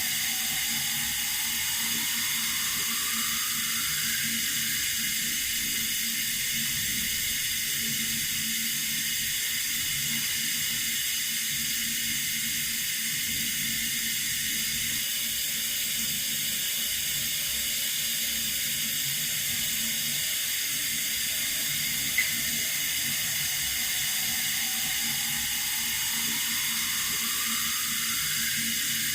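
Water running steadily from a tap, an even high rush of noise, with one brief click about two-thirds of the way through.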